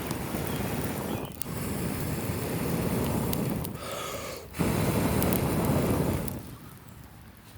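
Three long, forceful breaths blown into a campfire to get it going, each a rush of air that also buffets the microphone. The last breath starts abruptly and fades out about six seconds in.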